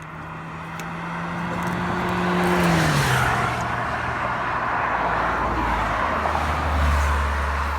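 Motor hum that grows louder and then drops sharply in pitch about three seconds in, settling into a deeper hum.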